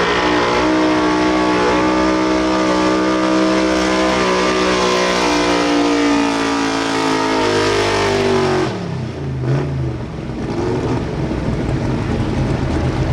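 Super street 4x4 pulling truck's engine at high revs under heavy load during a sled pull, its pitch slowly sagging as the load builds. About eight and a half seconds in the throttle is cut and the engine falls away to a low rumble, marking the end of the pull.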